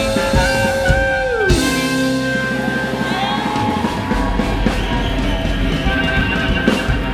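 Live rock band playing. A sustained electric-guitar note is held and slides down in pitch about a second and a half in, over drum hits.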